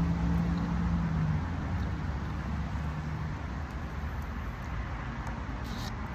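Steady low rumble of a motor vehicle, with a low hum that fades away within the first few seconds.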